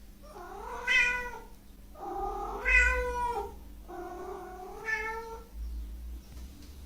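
Domestic cat meowing: three long, drawn-out meows in a row, each rising and then falling a little in pitch.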